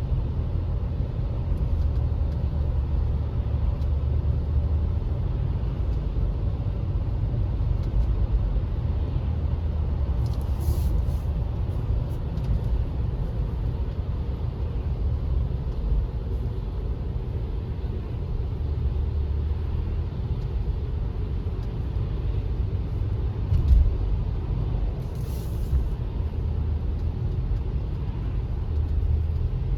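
A car driving: steady low rumble of road and engine noise, with a single short bump about three-quarters of the way through.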